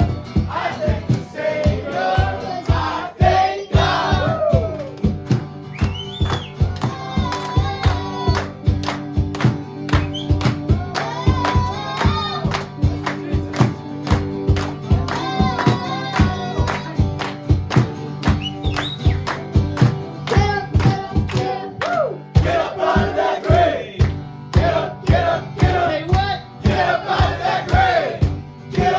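Live worship music: a band playing over a steady drum beat with sustained chords, and voices singing over it.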